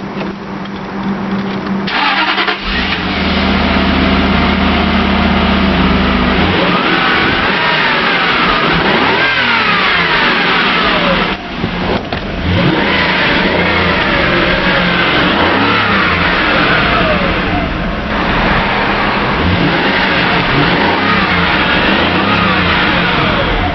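Jaguar XJ8's V8 through its stock exhaust, running at a steady low idle and then revved up and down repeatedly, the pitch rising and falling with each blip.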